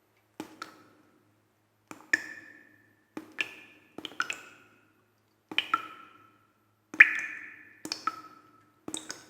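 Sharp slaps and strikes from a kung fu form performed at full speed, mostly in quick pairs, each with a brief ringing echo. They come irregularly, about eight times, the loudest about seven seconds in.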